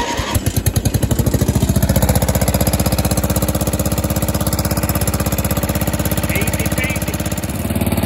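A Briggs & Stratton Power Built 12 HP engine on an old Snapper riding mower, started on the key. The starter turns it over, it catches within about the first second and then runs steadily, showing that the newly wired ignition switch, solenoid and starter work.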